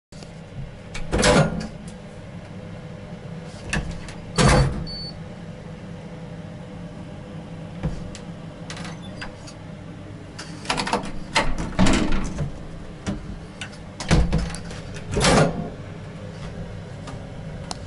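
Elevator car's steady hum with a faint steady tone, broken by a series of loud knocks and clunks, the loudest about a second in, near four and a half seconds, and several between eleven and fifteen seconds.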